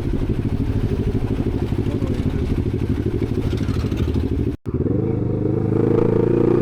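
Sport motorcycle engine running while riding. About two-thirds in the sound cuts out for an instant, then the engine note climbs as the bike accelerates.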